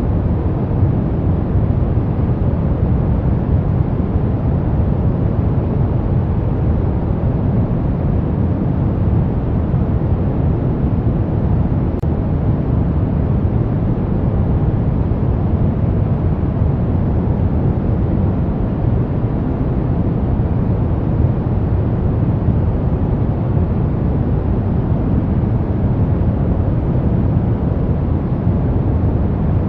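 Brown noise: a steady, even deep hiss with most of its energy in the low end and little in the highs.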